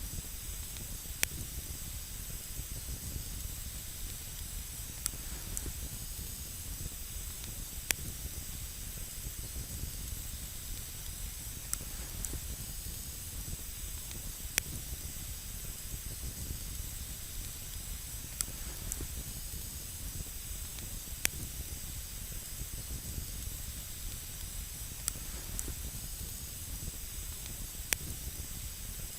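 Wood campfire burning with a steady hiss, and a sharp crackle or pop every few seconds.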